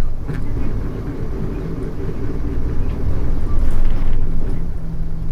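Mitsubishi Fuso U-MK618J bus's diesel engine running, heard inside the passenger cabin as a steady low drone.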